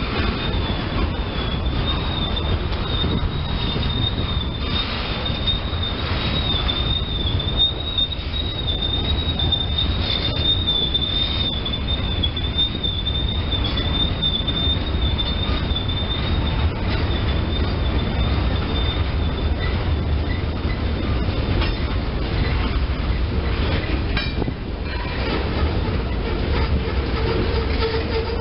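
Freight cars of a CSX local rolling past on jointed track: a steady low rumble of wheels on rail, with a high, wavering wheel squeal over roughly the first half. A steady lower tone joins near the end.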